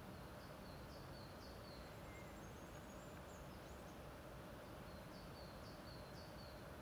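A small songbird singing faintly: a phrase of a few quick down-slurred high notes, each a little higher than the last, followed by thinner high twitters, the phrase coming twice. Under it a steady faint hiss.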